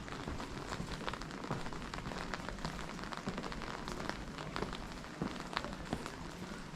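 Rain falling steadily: a constant hiss of rain with many separate drops ticking sharply.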